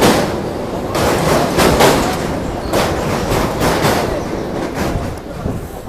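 Running noise of a moving suburban electric local train heard from inside the carriage: a steady rumble with irregular knocks and clatter from the wheels and car body.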